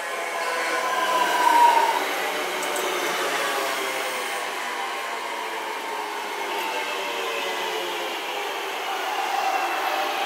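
Electric multiple unit train running past along the platform, its motors whining and slowly falling in pitch over the rolling rail noise. Loudest as the front draws level, about one and a half seconds in, then steady, swelling again near the end.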